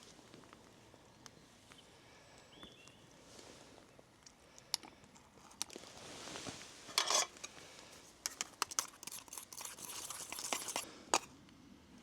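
Irregular crunching and rustling with scattered sharp clicks, sparse at first and busier and louder in the second half.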